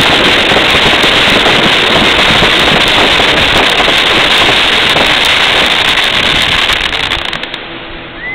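Fireworks display going off in a rapid, continuous barrage of bursts and crackling, dying down near the end.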